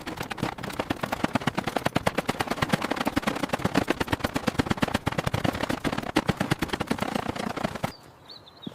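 Rapid, continuous hammering, about a dozen sharp knocks a second, that stops suddenly near the end.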